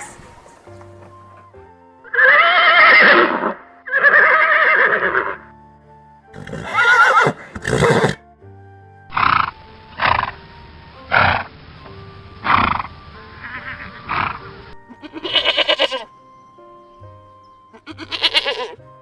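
Animal calls over background music: two long calls, then a run of shorter calls spaced about a second apart.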